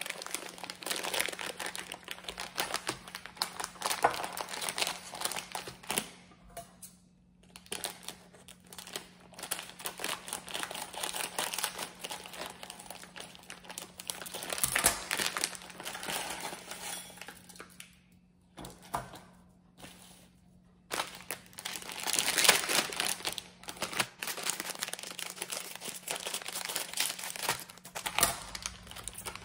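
Plastic instant-noodle packets and seasoning sachets crinkling as they are handled and snipped open with scissors, and the dry noodle block crushed inside its wrapper. It comes in irregular spells of rustling with a few brief pauses.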